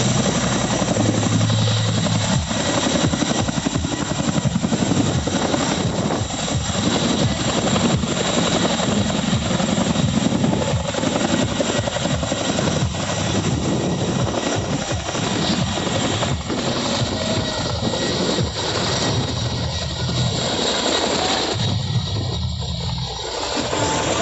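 Boeing CH-47 Chinook tandem-rotor helicopter running, its rotor blades beating in a rapid, steady pulse with a thin steady high whine above. The beat becomes less distinct near the end.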